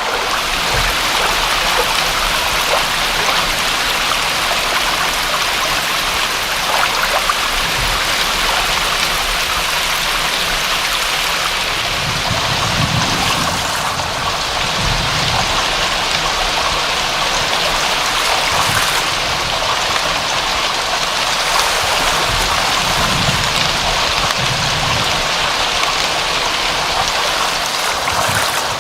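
Steady rain falling: a continuous, even hiss of water, with soft low rumbles swelling in and out now and then.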